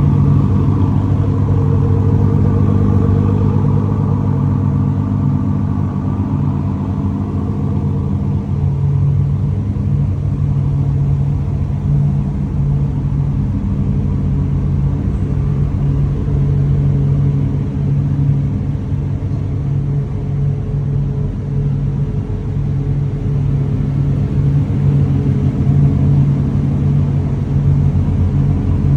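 High-performance car engine idling steadily at a low, even pitch for the whole stretch, with a little more edge in the first several seconds.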